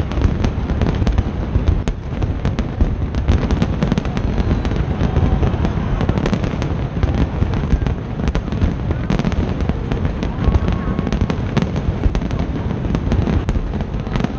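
Large aerial fireworks display going off continuously: a dense run of bangs and crackles over a steady low rumble, with no pause.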